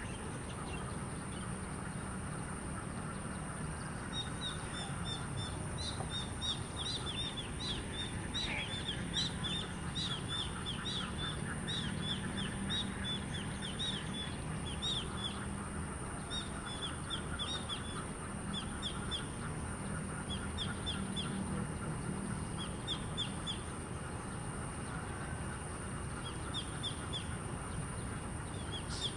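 Birds chirping: quick runs of short, high, falling chirps, starting about four seconds in and repeating through the rest, over a steady high-pitched whine.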